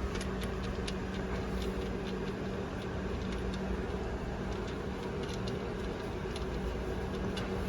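A steady low mechanical hum, with faint, irregular metallic clicks of hand tools working on the crankshaft pulley bolt.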